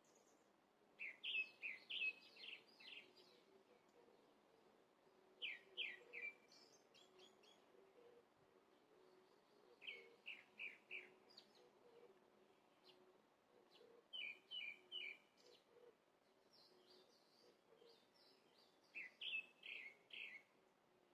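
A songbird singing short phrases of quick chirping notes, a phrase every four to five seconds, five phrases in all. A faint steady hum lies beneath.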